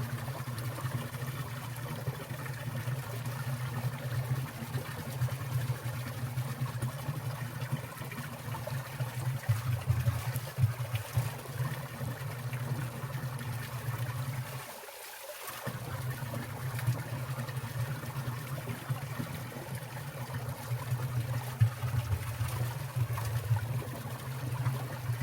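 Water of a winter mountain stream trickling and splashing steadily under icicles, with a low rumble beneath that drops out briefly about halfway through.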